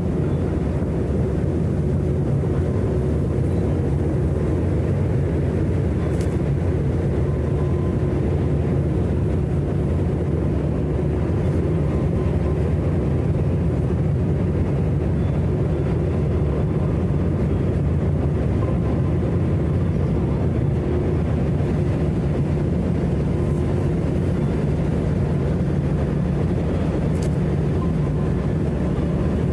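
Engines of the sightseeing icebreaker Aurora running steadily, a deep even hum with a low drone, heard from on board.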